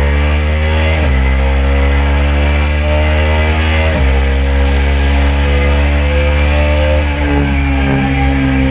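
KTM RC 390's single-cylinder engine under hard acceleration, rising in pitch with quick upshifts about one second and four seconds in, then holding steady and easing off near the end as the bike leans into a corner.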